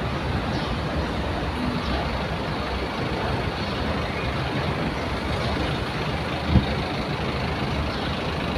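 A vehicle engine running steadily, a low rumble, with a single knock about six and a half seconds in.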